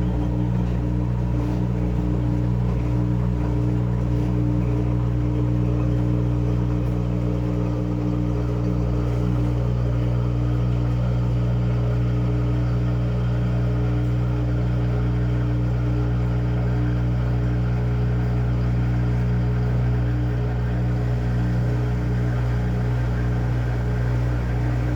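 Washing machine motor running with a steady, unbroken low hum.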